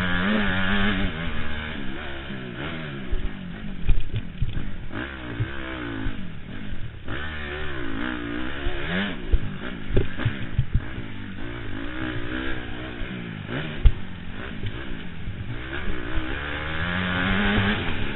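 Honda CRF four-stroke motocross bike engine revving hard, its pitch rising and falling again and again through the gears, heard from a helmet camera. Several sharp knocks stand out, the loudest about four and fourteen seconds in.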